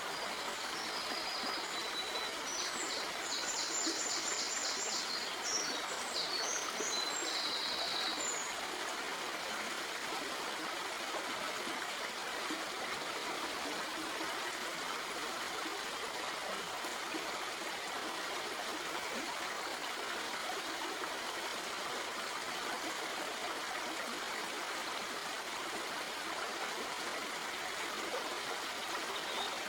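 Shallow stream flowing steadily over rocks, a constant rushing and trickling. A bird chirps in a quick high series through the first eight seconds or so.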